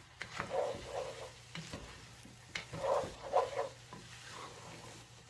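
A spoon stirring and scraping rice and lentils around a pot over raised heat, with a light sizzle under it: the rice and dal being sautéed together for khichuri. The stirring comes in two bouts, about half a second in and again from about two and a half seconds in.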